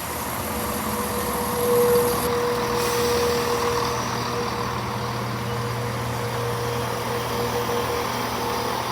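Diesel train's engine idling steadily at a standstill, a constant hum with a steady whine above it that swells slightly about two seconds in.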